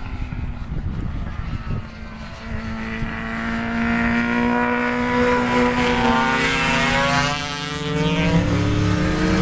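A racing motorcycle's engine running at high revs as the bike comes by on track: it grows louder, then its note drops in pitch as it passes. Wind rumbles on the microphone.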